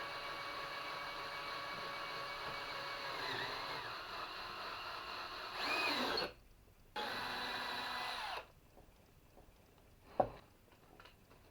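A small power tool's motor runs with a steady whine, winds down and stops about six seconds in, then runs again for about a second and a half. Light clicks and one sharp knock follow near the end.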